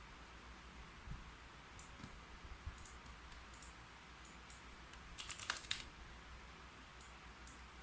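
Typing on a computer keyboard: scattered single keystrokes, then a quick run of keys a little past halfway, then a couple more.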